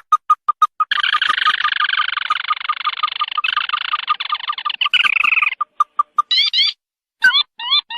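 Ruddy-breasted crake calls played as a lure: a fast run of short piping notes, about five a second, joined about a second in by a dense chattering trill that stops about five and a half seconds in, then a few quick up-slurred notes.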